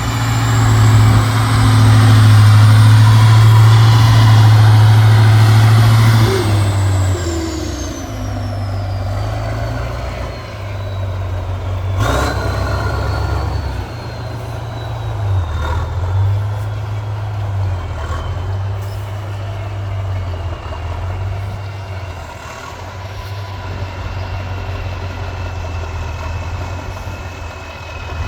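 Heavy truck engine working hard off-road, loud for the first six seconds and then running lower with changing load. A high whistle climbs and then slowly sinks, and a sharp knock comes about twelve seconds in.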